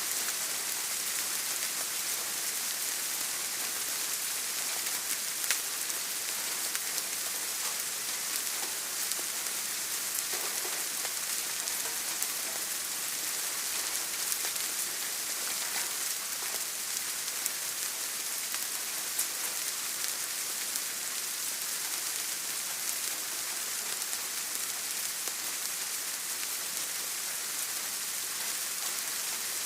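Steady rainfall, an even hiss with faint scattered drop ticks and an occasional louder drip.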